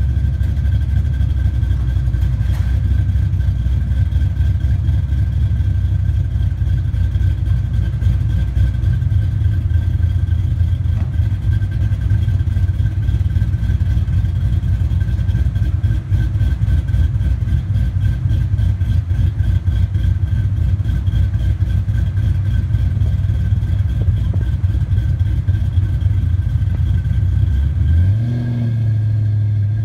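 2005 Ford Mustang GT's 4.6-litre V8 with an FRPP (Ford Racing) camshaft, idling through its dual exhaust with a steady pulsing beat. Near the end the revs rise quickly and hold higher.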